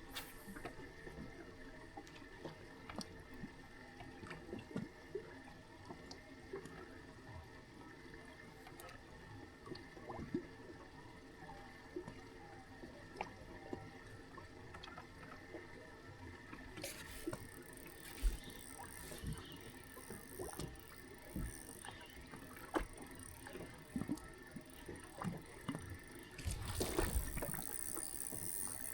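Water lapping and gurgling against a bass boat's hull, with scattered small knocks and a faint steady hum. The noise grows louder in the last few seconds.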